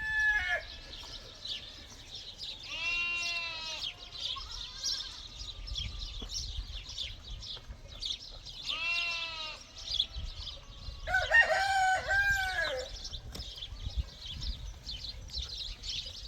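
Goats bleating, two long wavering calls, then a rooster crowing. Small birds chirp throughout.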